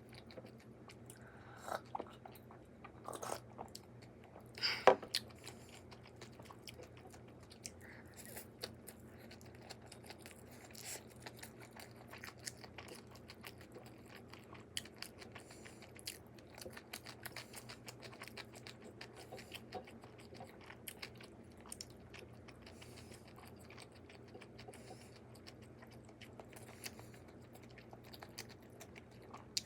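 A person eating okonomiyaki up close: soft chewing and biting with small clicks throughout, and a sharper knock about five seconds in.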